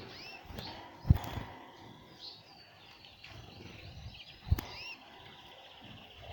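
Canaries and goldfinches chirping, many short rising and falling calls. Two sudden loud thumps stand out, about a second in and again about four and a half seconds in.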